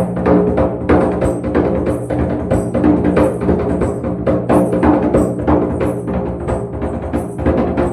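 Hand drums struck in a quick, uneven run of several beats a second over a steady low ringing drone, with a light high rattle on top.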